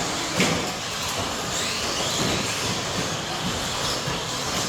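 1/10-scale electric stadium trucks with 13.5-turn brushless motors racing: a steady mix of motor whine and tyre rattle, with a sharp knock about half a second in.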